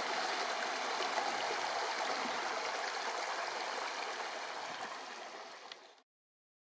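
Steady rushing of flowing water from the Orkhon River at its waterfall, fading out about five seconds in and cutting to silence for the last half second.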